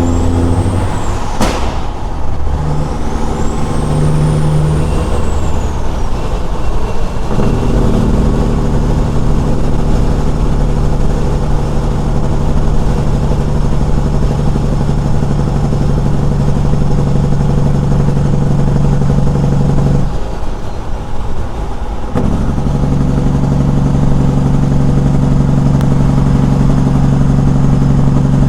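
Straight-piped Caterpillar 6NZ inline-six diesel in a big rig, heard loud. Its pitch steps about for the first few seconds, then holds steady for a long stretch. About two-thirds of the way in it drops off for a couple of seconds, then comes back at the same pitch.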